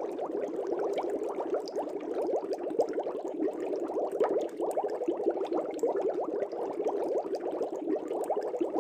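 Water bubbling in a fish tank: a dense, continuous stream of small bubbles, many quick blips overlapping with no pause.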